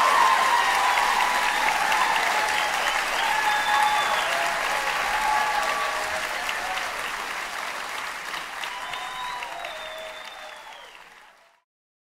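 Theatre audience applauding, with a few voices calling out over the clapping; the applause fades and cuts off about eleven seconds in.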